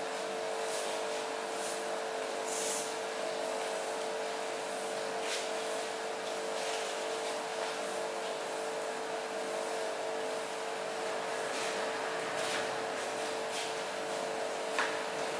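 A machine running steadily: a constant hum with a fixed high tone over an even hiss, and a few brief clicks.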